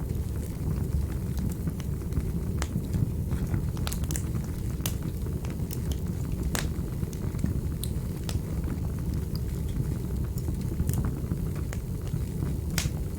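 Wood fire burning in a fireplace: a steady low rumble of flames with irregular, scattered crackles and pops. The sharpest pops come about halfway through and near the end.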